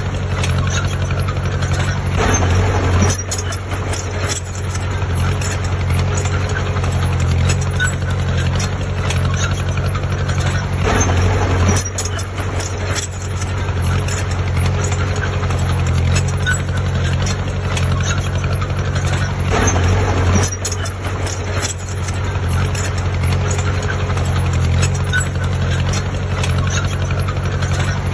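Heavy diesel engine of earthmoving equipment running steadily, with three short louder surges about eight to nine seconds apart.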